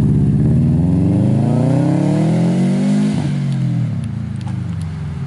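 2002 Subaru WRX's turbocharged 2.0-litre flat-four revving through an Invidia N1 race exhaust: the pitch climbs for about three seconds, then drops and the sound eases off.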